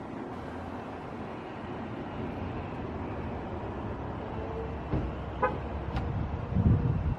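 Steady low engine rumble, with a steady hum joining partway through and gusts of wind on the microphone near the end.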